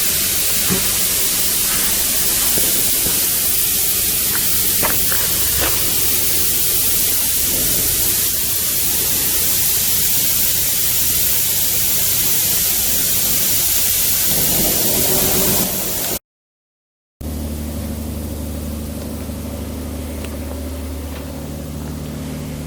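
Loud steady hiss of shipyard work, which stops abruptly after about sixteen seconds. After a moment of silence comes a steady machine hum with several low steady tones.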